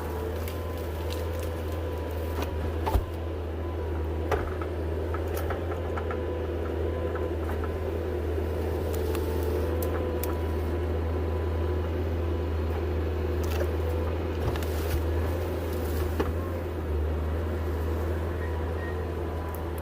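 A vehicle's engine running steadily with a low drone, heard from inside the cab, and a few light clicks and rattles.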